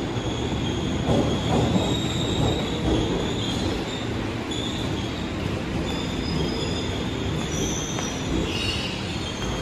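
Electric commuter train running on the station tracks: a steady rumble with thin, high wheel squeal from the rails that comes and goes and shifts in pitch.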